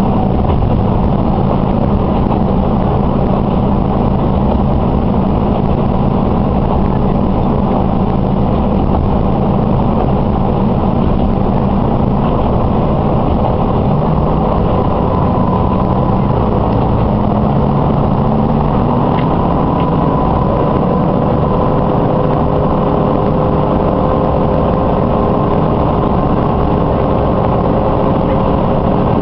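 Diesel railcar heard from inside the passenger cabin while running: a steady engine drone mixed with the rumble of the wheels on the rails. From about halfway through, a faint whine joins in and rises slightly in pitch.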